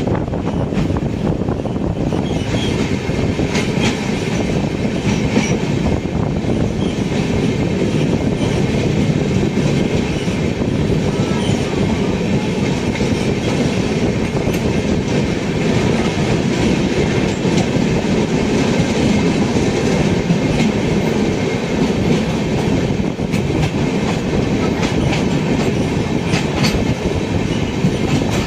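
Passenger train running on the rails: a steady low rumble of the coaches with a faint clatter of wheels over the track.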